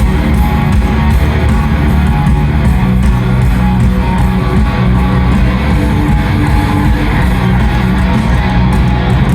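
Live rock band playing loudly over a stadium PA, with strummed electric guitars and bass guitar.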